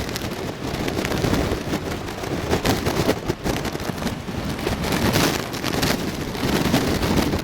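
Typhoon-force wind buffeting the microphone in irregular gusts over the rushing of heavy surf.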